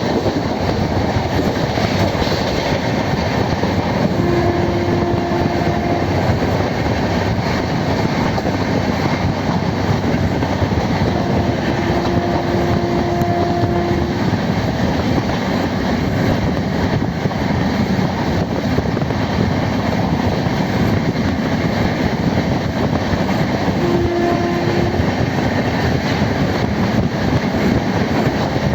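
Passenger express train running along the track, a steady loud rumble and rattle of wheels and coaches. A short steady tone sounds three times over it.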